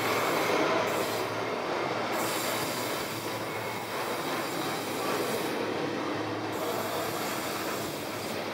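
Container wagons of a long freight train rolling past close by: a steady rumble and rattle of wheels on the rails, with a faint high wheel squeal coming and going.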